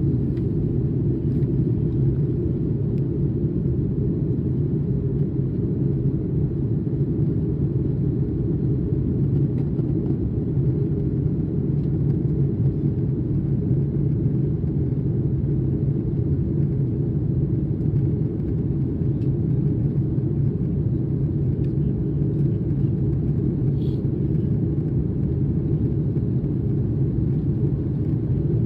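Steady low rumble of cabin noise in an Airbus A330 jet airliner, unchanging throughout.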